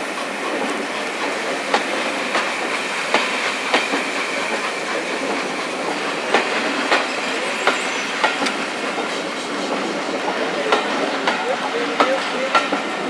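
Railway carriages running along the track: a steady rolling noise with sharp, irregular clicks of the wheels over rail joints.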